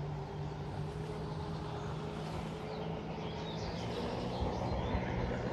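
Steady distant engine hum, with a few short bird chirps about three seconds in.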